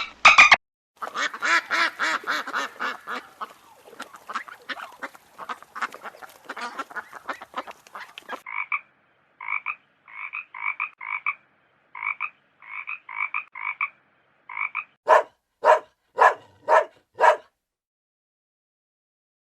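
Frogs croaking: a dense, rapidly pulsing chorus for the first several seconds, then a run of short repeated croaks, then five louder croaks about half a second apart.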